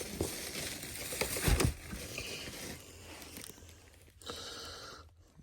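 Packaging crinkling and rustling as small parts are handled and unwrapped, irregular, with a louder crackle about a second and a half in and another near the end.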